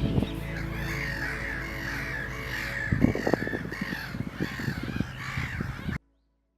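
Repeated harsh, caw-like bird calls over background music, with a few knocks about halfway through; everything cuts off abruptly near the end.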